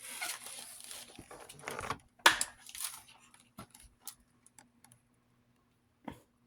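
Handling noise from a plastic box fan being turned over and moved by hand: a rustle, then scattered clicks and clunks. The loudest is a sharp knock about two seconds in, and another knock comes near the end.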